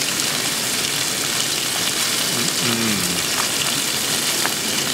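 Halved lobsters sizzling on a hot barbecue grill plate, a steady frying hiss, with a few light clicks as tongs turn them.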